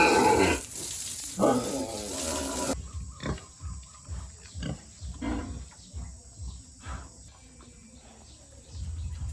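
Pigs grunting and squealing, loudest in the first few seconds, then quieter short grunts and snuffling mixed with small knocks.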